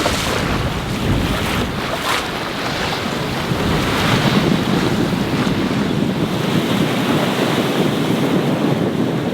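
Wind buffeting the microphone over the steady rush of breaking waves and water along a sailboat's hull as it runs downwind, with a couple of sharper gusts in the first two seconds.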